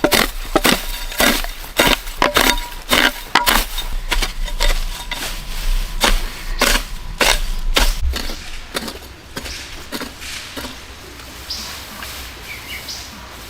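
A rapid, irregular run of sharp cracks and knocks, several a second, that thins out to a few fainter ones after about eight seconds.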